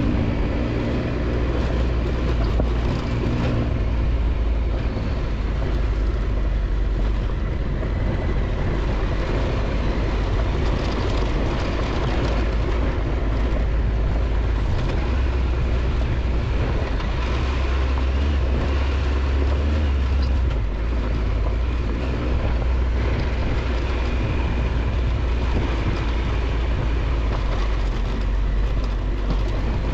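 Triumph Tiger 1200 XCX's three-cylinder engine running steadily while riding a dirt road, with a constant rushing haze of road and wind noise over a strong low rumble.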